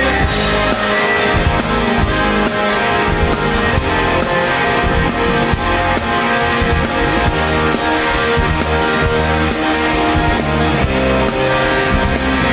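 Live rock band playing an instrumental passage, with guitars over a steady bass and drum beat and no vocals.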